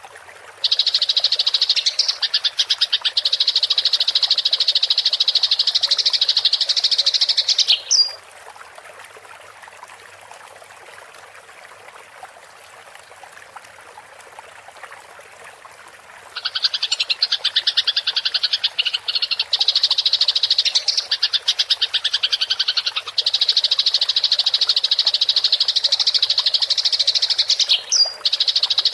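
Eurasian tree sparrows chattering in a fast, continuous rolling trill, the excited chatter of sparrows fighting. Two long runs, the first about seven seconds, the second starting about halfway through, with a faint trickle of water in the pause between.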